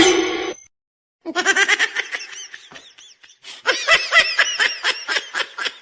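High-pitched laughter in quick repeated bursts, ha-ha-ha, starting about a second in and fastest near the end. Just before it, a short loud sound is cut off abruptly.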